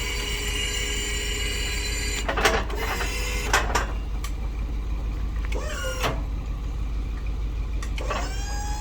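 Service-truck crane's powered drive whining steadily for about two seconds over the running truck's low hum, then several metal clanks with short squeaks as the boom and jib extension are handled. Near the end the whine comes in again, rising and then holding steady.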